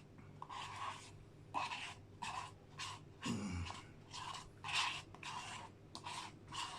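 A spoon scraping and mixing in a bowl of ice cream, in short rhythmic strokes about twice a second. A brief falling tone sounds about halfway through.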